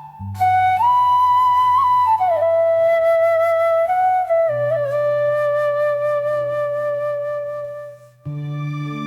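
Background music: a slow flute melody of long held notes that slide between pitches, over a soft sustained low drone.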